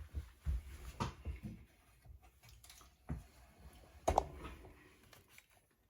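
Handling noise: scattered knocks and clicks with low rumbling, the sharpest knock about four seconds in.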